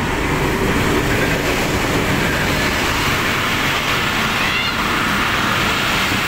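Diesel-hauled passenger train arriving alongside the platform, passing close by: the locomotive goes past, then its coaches roll by with a steady, loud noise of wheels on the rails.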